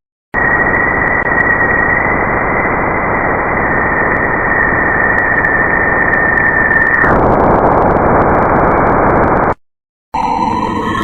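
Spacecraft radio and plasma-wave data converted to sound: a loud, even hiss with a steady high tone on top that fades out about seven seconds in, with a few faint clicks. After a brief dropout near the end, a different recording starts with wavering tones.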